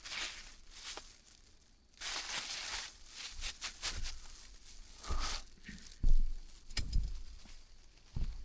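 Close handling noises: rustling and crinkling with scattered clicks, and a low thump about six seconds in, with another shortly after.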